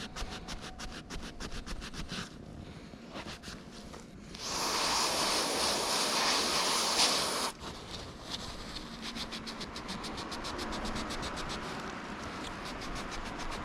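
Rapid, evenly spaced clicking of hand tools, then a loud hiss of an aerosol parts-cleaner spray for about three seconds, cut off sharply, after which the even clicking resumes.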